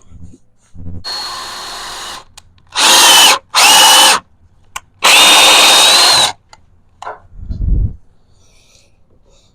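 Power drill running: a quieter first run, then three loud short runs, the motor whine rising in pitch as each one starts. A short low thump follows near the end.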